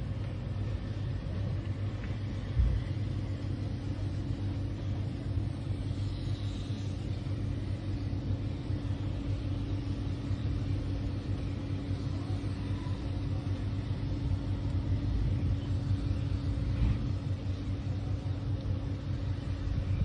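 An engine running steadily, a low drone with a constant hum, with one brief thump about two and a half seconds in.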